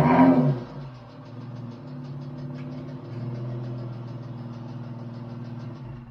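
Chrysler 300's engine and exhaust: a short throttle blip right at the start, then steady idling with a faint, fast ticking on top, until it cuts off near the end.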